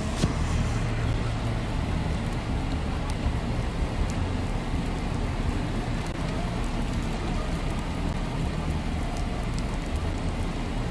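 Steady heavy rain, with a low rumble underneath and one sharp tap just after the start.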